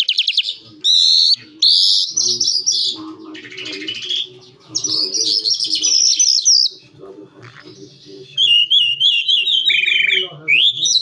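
Calandra lark singing a long, varied song of high warbling phrases and trills, with a run of quick repeated notes near the end.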